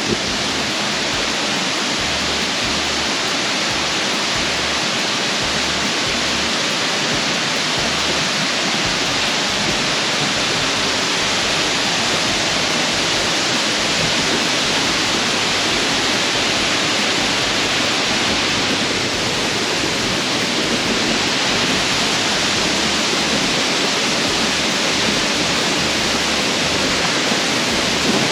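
Waterfall pouring through a cave, a loud, steady rush of water that does not let up.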